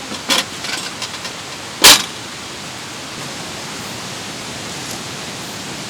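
Steady rushing of a mountain stream, with a short knock near the start and a much louder sharp knock about two seconds in.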